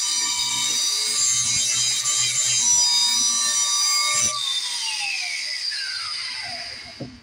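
Cordless grinder grinding the edge of a steel mower blade, a harsh scraping whine with high ringing tones. About four seconds in the grinder comes off the blade and is switched off, its whine falling steadily in pitch as the disc spins down.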